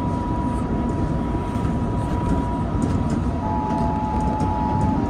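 Keihan Railway electric train running, heard from inside the driver's cab: a steady rumble of wheels and running gear, with a thin steady whine throughout and a second, slightly lower whine joining about three seconds in.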